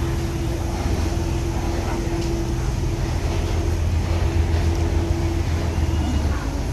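Cross-river ferry boat's engine running with a steady low drone and a held hum above it.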